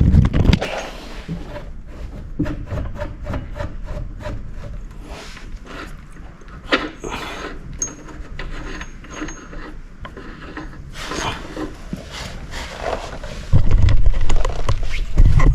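Hands and tools working on a motorcycle's rear wheel and axle: rubbing, scraping and scattered clicks of parts being shifted, with heavy low thumps near the end.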